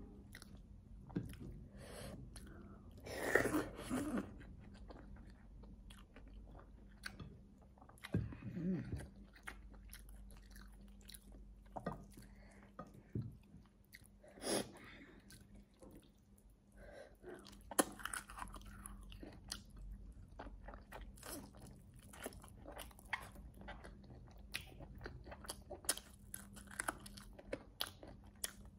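A person chewing and biting meat off fried goat ribs eaten by hand: close-up mouth sounds with many small sharp clicks and occasional crunches.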